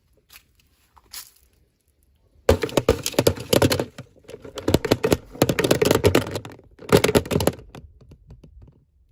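Toy packaging being handled and opened by hand: a few faint clicks, then loud rapid clicking and crackling of plastic and card in three bursts.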